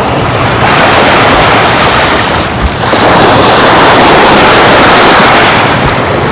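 Surf washing onto the beach, with wind buffeting the microphone; a louder wash swells about three seconds in and eases off near the end.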